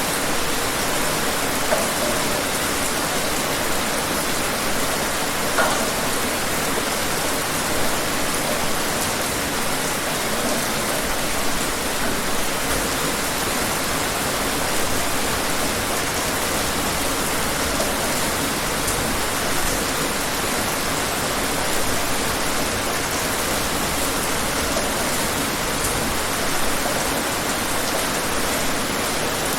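Steady heavy rain, an even hiss of falling water with the odd louder drop standing out.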